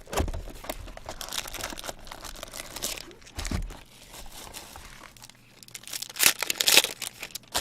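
Plastic wrapping and card packs being torn open and crinkled by hand while a box of sports cards is opened, in irregular rustling bursts, loudest about six seconds in.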